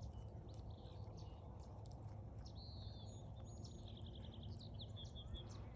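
Small birds chirping over a low steady outdoor rumble, with a quick trill of about ten repeated notes around four seconds in.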